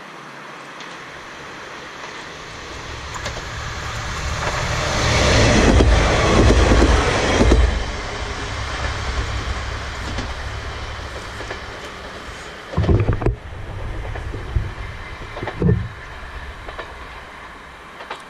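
A Kanto Railway diesel railcar approaching and passing close by: engine and wheels on the rails swell to their loudest about five to seven seconds in, then fade as it runs away. Near the end come two short low thumps.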